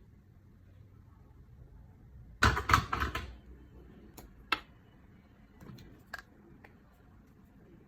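Small hard objects being handled: a quick clatter of clicks and knocks about two and a half seconds in, then a few single sharp clicks, like makeup packaging being picked up, opened and set down.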